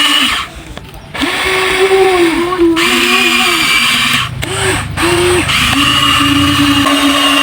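Huina 1593 RC excavator's small electric motors whining in short runs as it digs, stopping and starting again several times, the pitch wavering as the load changes.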